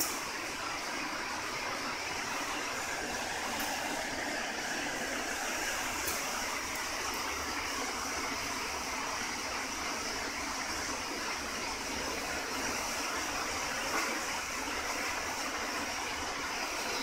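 Tubular long-arm double-needle filter bag sewing machine running continuously with a steady mechanical noise.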